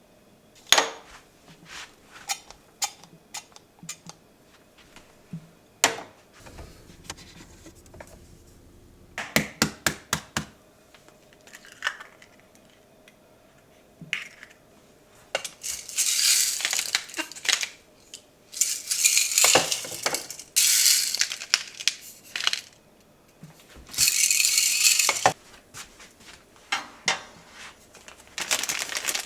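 Small hard objects clinking and clattering, like dishes and utensils being handled, with sharp scattered clicks. In the second half come several long bursts of rustling.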